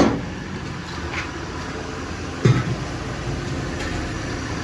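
A few sharp knocks, the loudest at the start and about two and a half seconds in, over a steady background hum of workshop noise.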